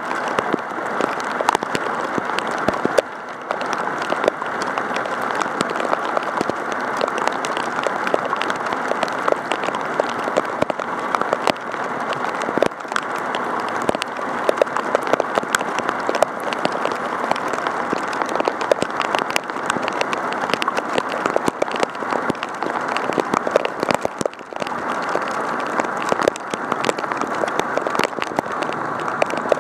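Heavy rain pelting a Contour action camera: a dense, steady crackle of drops striking the camera right at its microphone, with short lulls about three seconds in and near the end.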